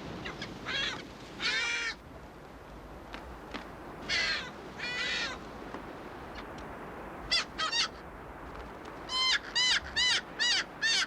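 Striated caracaras giving harsh calls, each made of a series of arched notes: two pairs in the first half, then a quick run of about seven near the end. These are parent birds defending their chick against an intruder.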